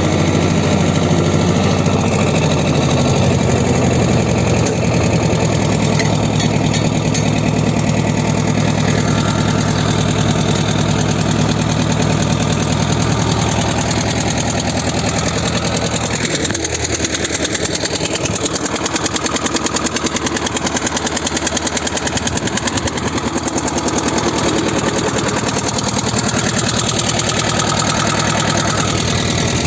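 Vladimirets T-25 tractor's two-cylinder air-cooled diesel idling, a steady drone with a fast, even pulse of firing strokes; its note shifts just past halfway through.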